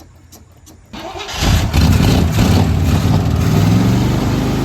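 A 1981 Chevrolet K30 pickup's engine, after sitting about 15 years, cranks and fires about a second in, then keeps running loudly and steadily.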